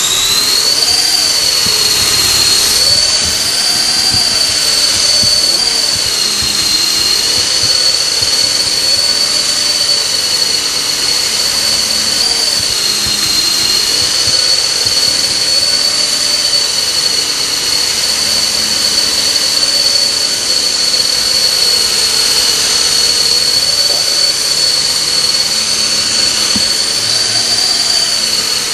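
Radio-controlled model helicopter running in flight, its motor and rotor giving a steady, high-pitched whine, with a fainter lower tone that wavers up and down.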